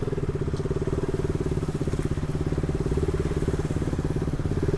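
Single-cylinder motorcycle engine running at steady, even revs, its exhaust pulses fast and regular.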